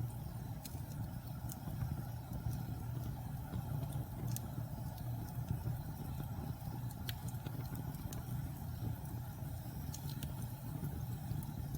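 Logs burning in a fireplace: a steady low rumble from the fire with sharp crackles and pops scattered irregularly through it.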